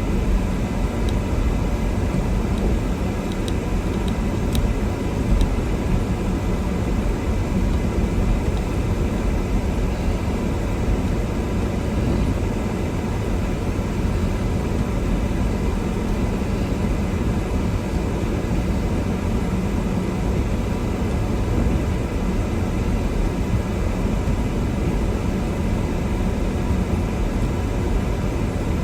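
Steady low rumble of a car driving on a snow-covered road, heard from inside the cabin: engine and tyre noise, with a few faint ticks in the first few seconds.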